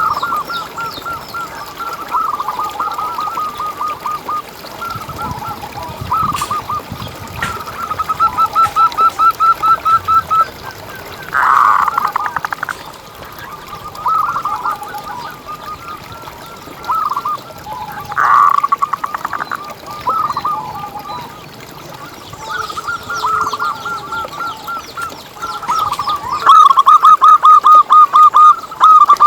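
Zebra dove (perkutut) calling: long runs of quick, repeated cooing notes, with two short, fuller bursts partway through and a louder, faster run near the end.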